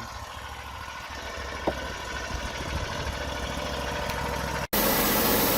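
Wood-Mizer LT40 sawmill's engine running steadily at idle, with a short sharp sound about one and a half seconds in. Near the end the sound drops out for an instant and comes back louder and brighter.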